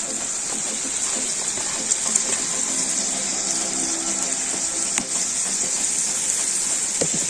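Carrots frying in hot oil in a cast-iron kazan over a fire, a steady sizzle, with a single knock about five seconds in.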